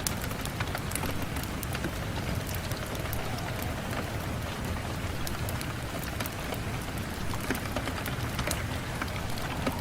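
Steady rain on a window, with scattered sharp ticks of drops.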